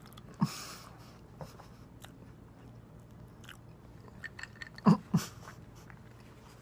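Close-up chewing and mouth sounds of a person eating a grilled tuna melt sandwich: soft wet smacks and clicks, with two louder thumps about five seconds in.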